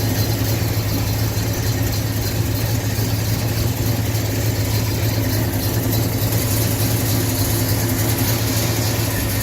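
1969 Pontiac GTO Judge's 400 cubic inch V8 idling steadily.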